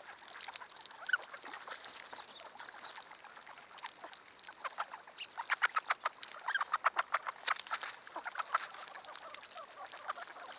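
A large flock of ducks, mallards among them, calling over one another in a continuous chorus of quacks. Near the middle the calls come louder, in rapid runs of several quacks a second.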